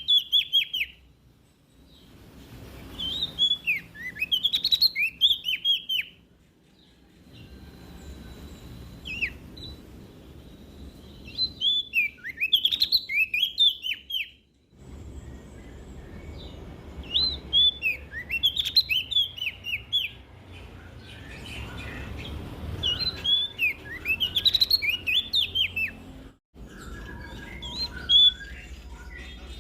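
A prenjak daun (leaf warbler) singing: bursts of quick, high, sweeping notes that come back every four to six seconds, with a low rumble underneath between the phrases.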